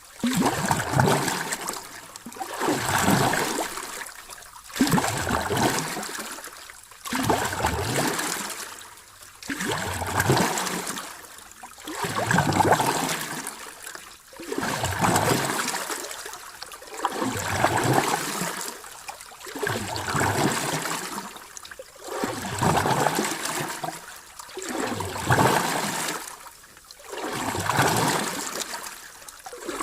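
Sea waves washing ashore in a steady rhythm, each surge of hissing surf swelling and fading about every two and a half seconds.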